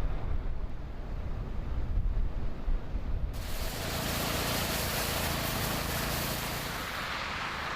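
Outdoor noise in a snowbound city: a low rumble, changing abruptly about three seconds in to a steady hiss over a low hum.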